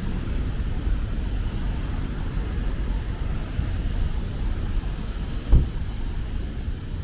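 Rainy city street ambience: a steady low rumble of traffic under a faint hiss of rain, with a single thump about five and a half seconds in.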